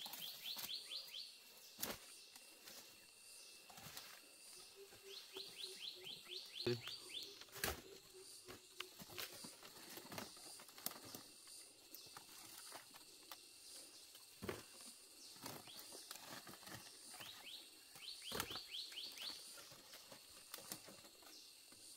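A forest bird singing a quick run of rising high chirps, repeated three times, over scattered soft knocks and rustling.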